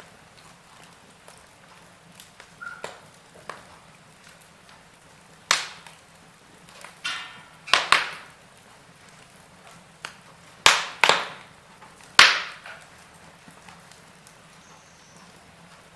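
Wood fire burning in a fireplace, crackling and popping: sharp cracks come in irregular clusters, the loudest a little after twelve seconds in, over a soft steady hiss of the flames.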